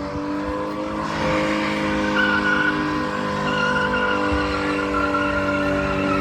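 BMW E30 engine held at high revs while the tyres squeal in a burnout attempt, a steady high-pitched squeal over the engine that grows fuller about a second in.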